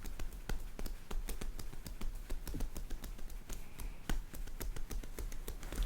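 Rapid, irregular tapping clicks, many a second, over a low handling rumble.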